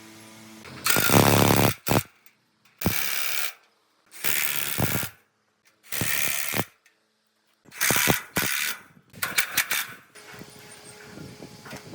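Short, loud bursts of workshop tool noise, each under a second and sharply cut off, with dead silence between them.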